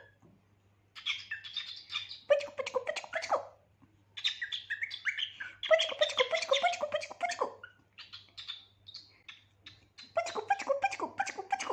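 Cockatiel chirping and chattering in several bursts of rapid calls, with short pauses between them.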